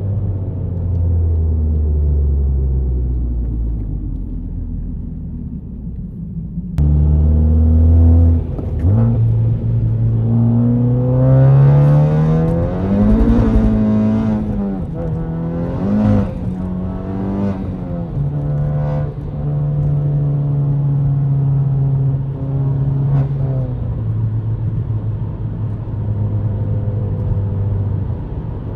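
Tuned Honda Civic Type R FK8's turbocharged 2.0-litre four-cylinder engine, heard from inside the cabin. The engine note falls steadily as the car slows, jumps suddenly louder about seven seconds in, then climbs hard through rising revs with sharp bursts at several lifts and shifts, and settles into a steady cruise for the last ten seconds.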